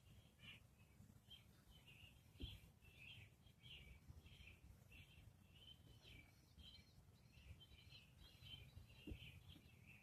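Faint bird chirping, short calls repeated over and over, over a low rumble, with a soft thump about two and a half seconds in and another near the end.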